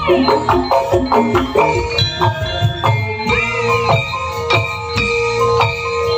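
Javanese gamelan music: bronze metallophones struck with mallets ring in a dense, quick pattern over low drum beats, with one long held tone through the second half.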